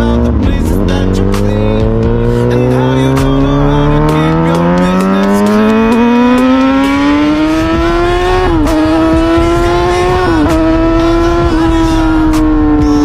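A vehicle engine running under load, its pitch rising steadily for about eight seconds, then dipping sharply twice and holding steady.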